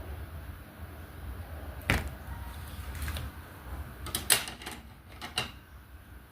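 Small sharp clicks and taps of diamond painting work, a plastic drill pen and resin drills knocking on the tray and canvas. There are a handful of taps, the loudest a quick cluster about four seconds in, over a low steady hum.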